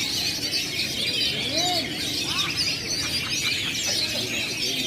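Many caged songbirds singing at once, a dense, unbroken chorus of overlapping high chirps and trills.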